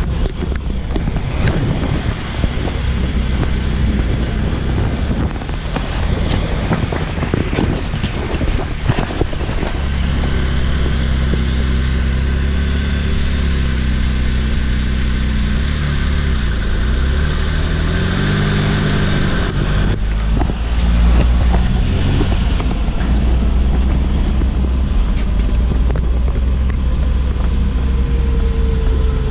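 Jaguar XJ220's twin-turbo V6 engine running as the car drives, heard from the passenger seat with wind rushing over the microphone. The engine pitch rises and falls a few times in the middle as the revs change.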